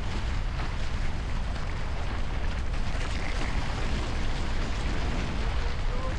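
Steady wind buffeting the microphone while a Hobie 16 catamaran sails, with the rush of water along the hulls.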